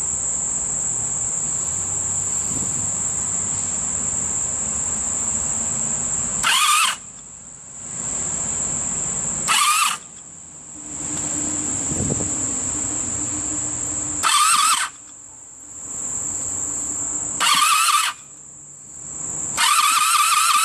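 The electric starter cranks the 1985 Honda Sabre V65's V4 engine in four short whining bursts, then a longer crank near the end. The engine does not catch: its float bowls and fuel lines have been emptied, so no fuel has reached the carburetors yet. Insects chirp steadily behind.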